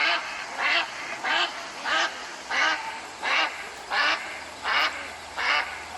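A duck quacking over and over in a steady rhythm, about nine quacks, one every three-quarters of a second or so.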